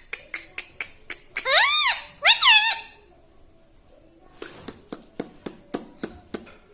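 A ring-necked parrot gives two loud calls about a second and a half in, each rising then falling in pitch. The calls are framed by sharp clicks: a few at the start and a quicker run of about nine near the end.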